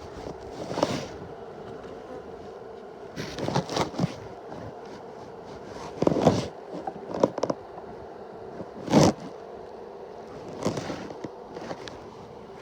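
Honeybees buzzing steadily around an open hive, broken by about seven short, loud scraping and rustling noises.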